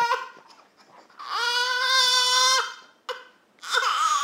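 A toddler crying out in pain, three high-pitched wails: a short one at the start, a long steady one about a second in, and a shorter one near the end. His mother takes the crying to be from biting his tongue.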